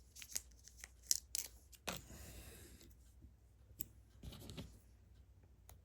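Faint small clicks and light rustling of a sticker being handled and pressed onto a LEGO piece, with plastic bricks tapping against each other.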